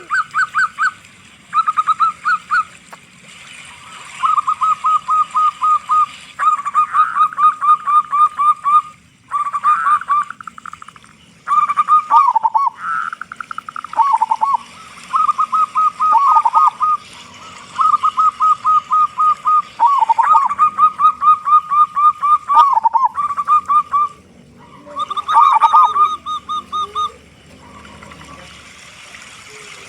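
Zebra dove (perkutut) singing: repeated bursts of rapid staccato cooing notes, each burst a second or two long with short gaps between, several ending in a lower falling note.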